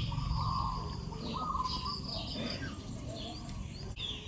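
Repeated short, high-pitched chirping calls from small animals, several overlapping, some falling in pitch.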